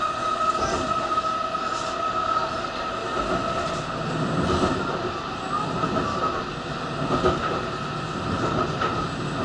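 N700-series Shinkansen train running, heard from inside the car at the door: a steady rumble and hiss from the running gear with a steady high whine over it. The rumble grows heavier about halfway through.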